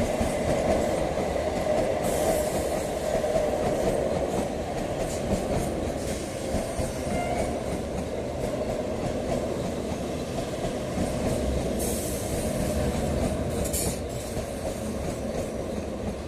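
Electric MEMU passenger train running along the rails as it draws into the station, a steady noise of wheels on track.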